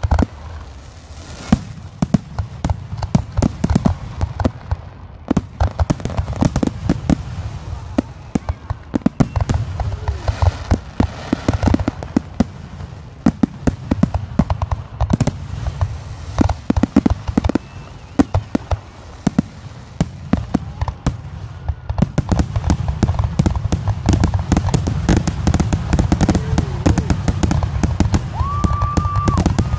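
Fireworks display: aerial shells launching from mortars and bursting in rapid succession, a steady barrage of booms and bangs. From about two-thirds through, the bursts come much thicker and louder, and a steady high tone joins near the end.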